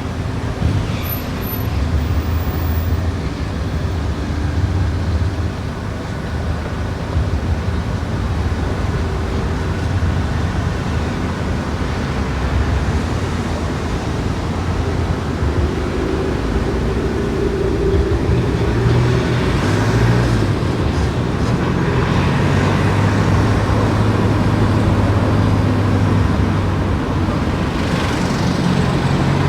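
A car driving along a road: steady engine and tyre noise that grows a little louder in the last third.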